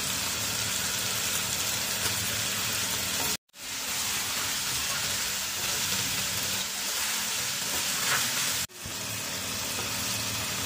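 Chicken pieces frying in oil in a pot, giving a steady sizzle that drops out abruptly for a split second twice.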